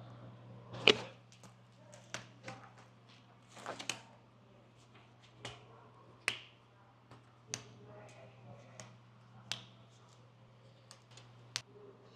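A series of sharp clicks and knocks at irregular intervals, about ten in all, the loudest about a second in, over a steady low hum.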